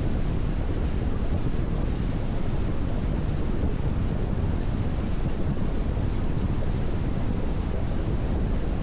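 Steady driving noise of a car cruising on a wet expressway in the rain: tyres on the wet road and wind, an even low rumble with a hiss above it.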